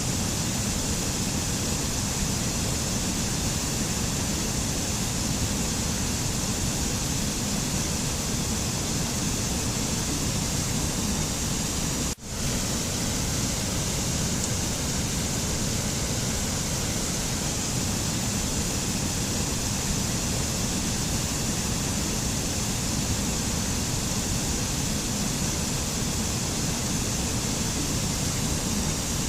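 Steady, even rushing noise with no tone or rhythm, the kind of continuous natural-sound bed used for meditation. It cuts out very briefly about twelve seconds in and resumes unchanged, like a splice in a looped recording.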